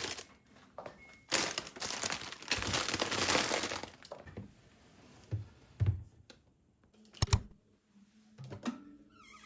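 Crinkling and rustling of packaging being handled from about a second in until about four seconds in, followed by a few soft knocks and a sharp double click about seven seconds in.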